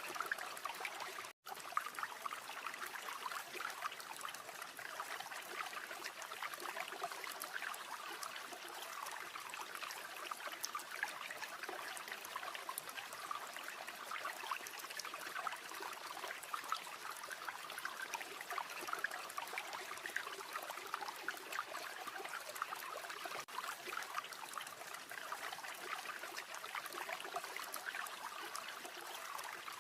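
River water flowing and trickling steadily in a continuous burble. The sound drops out completely for an instant about a second and a half in.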